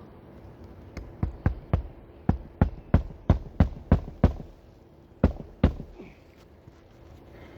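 Hammer driving roofing nails into an asphalt shingle: a run of about a dozen sharp strikes at roughly three a second, then two more after a short pause.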